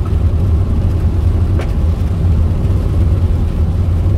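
Steady low rumble of a vehicle driving on a gravel road, tyre and road noise heard from inside the cabin, with one faint click about a second and a half in.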